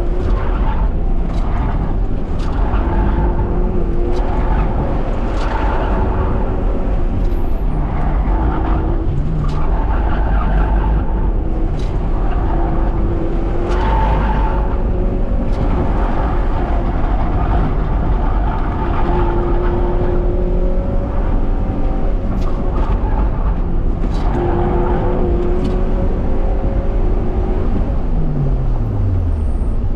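Honda Prelude's H22 four-cylinder engine driven hard, revving up and down repeatedly through acceleration and lifts, with tires squealing at times through the corners. Near the end the engine note falls steadily away as the car slows.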